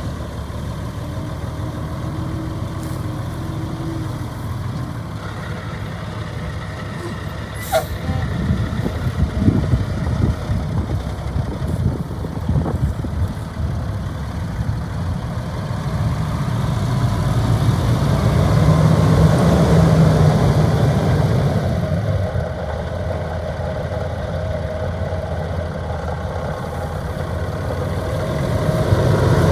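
The diesel engine of a 1987 Ford L9000 truck tractor running steadily, getting louder for a few seconds past the middle as it is revved or put under load, then settling back. There is a single short sharp sound about eight seconds in.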